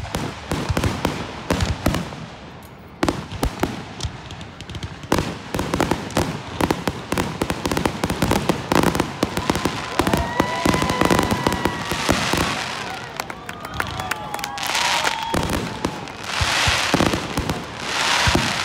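Aerial fireworks display: a rapid barrage of bangs and crackles from bursting shells. In the middle, whistling tones glide in pitch. Near the end come loud, hissing, crackling bursts.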